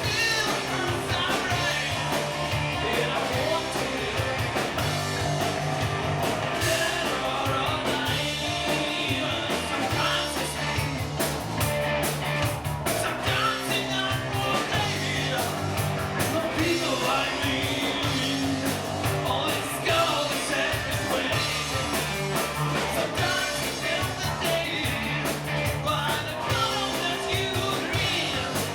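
Live rock band playing a cover song, with a singer over a steady beat.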